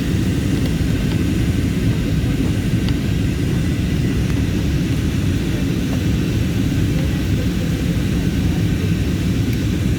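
Steady low drone of an airplane in flight, heard from inside the cabin: engine and airflow noise, even throughout.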